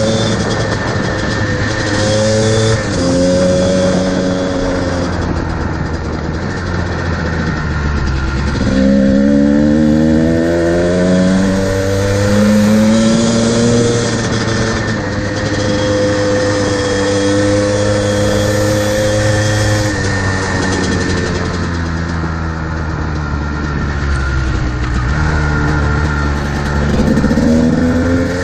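Modified Kawasaki KDX220R two-stroke dirt bike engine with FMF exhaust, ridden hard. The revs climb and drop again and again as the rider shifts through the gears.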